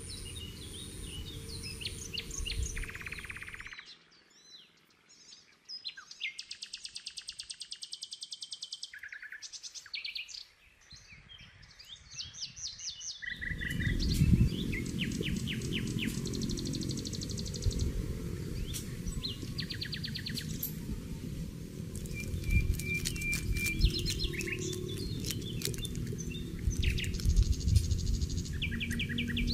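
Wild birds chirping and singing, with several fast repeated trills. A steady low background noise comes in about halfway through, under the birdsong.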